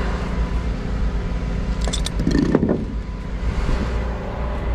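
Tow truck engine idling steadily, with a short clatter and knock about two seconds in as a wooden chock block is set in front of a tire on the rollback bed.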